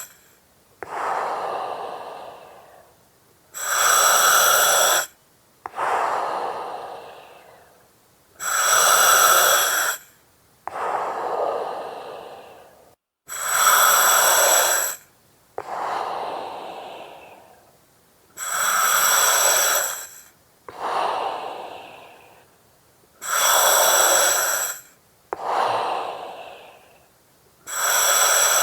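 Slow, steady breathing through an oxygen mask with regulator hiss, repeating about every five seconds. Each breath is a loud hiss of about a second and a half that starts and stops abruptly, then a softer breath that fades away.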